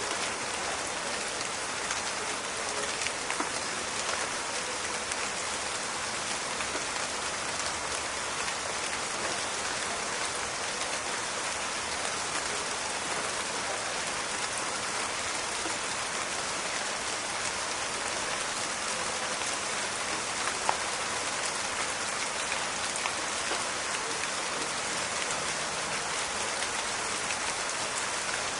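Steady rain falling in a forest, a dense even patter of drops with scattered sharper drip ticks, one louder about 20 seconds in.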